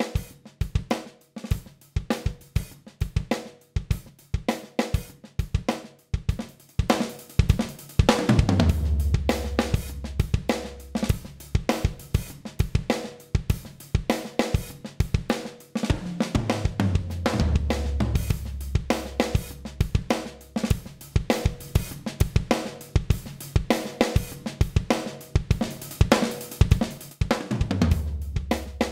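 Drum kit playing a steady groove of kick, snare, hi-hat and cymbals, run through a Black Lion Audio Bluey limiter, an 1176-style compressor. A bass line joins about eight seconds in.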